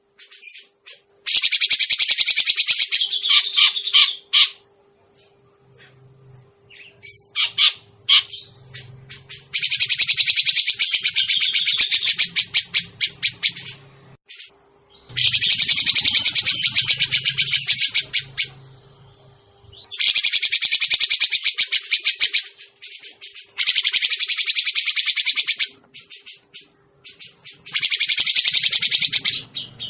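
Recorded lure calls of a cucak jenggot (grey-cheeked bulbul): long bouts of harsh, very rapid rattling chatter lasting a few seconds each, broken by short pauses.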